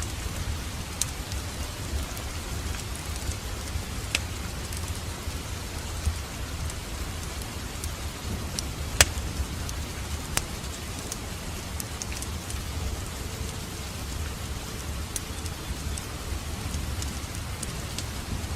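Wood fire crackling in a fireplace: a steady low rumble and hiss with scattered sharp pops, one louder pop about halfway through.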